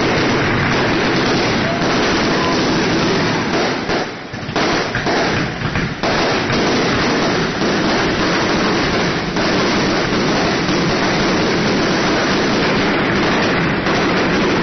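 Fireworks crackling and banging in a dense, continuous barrage, with a brief lull about four seconds in.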